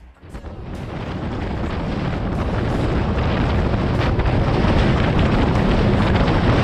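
Indian express train passing at speed, close by: a rushing noise that builds over about three seconds and then stays loud, heavy in the low rumble.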